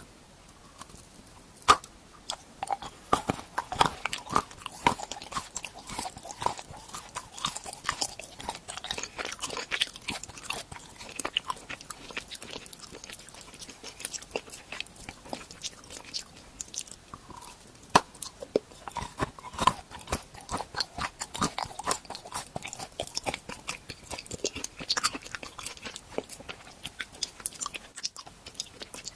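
Close-miked crunchy biting and chewing of edible treats shaped like renovation tools, with dense crisp crackles throughout and sharp snapping bites about two seconds in and again about halfway through.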